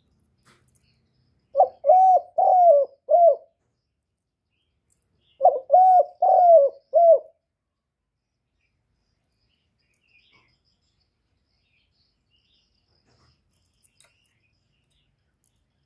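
Male spotted dove cooing: two phrases of about four low coo notes each, a few seconds apart.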